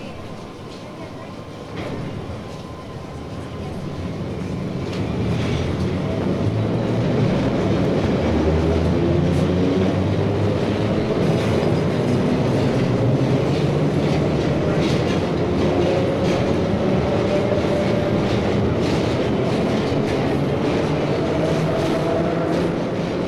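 New York City subway train coming in. It grows louder over the first several seconds, then runs loud and steady, with the motors whining and the wheels clacking over the rail joints.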